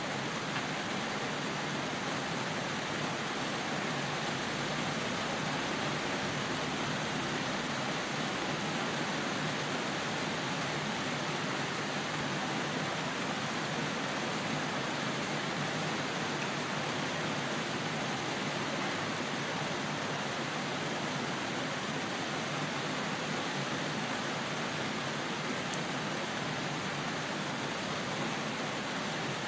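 Steady heavy rain, an even hiss with no thunder.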